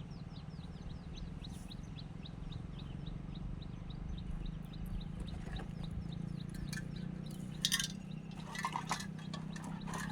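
Outdoor ambience: a bird calls in a rapid series of short high chirps, about four a second, for the first few seconds, over a steady low hum. A few sharp clinks come about three quarters of the way through.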